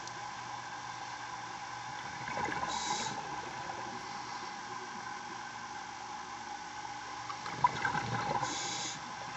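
Underwater recording of a scuba diver breathing through a regulator: two breaths, each a bubbling rush ending in a short hiss, over a steady machinery hum.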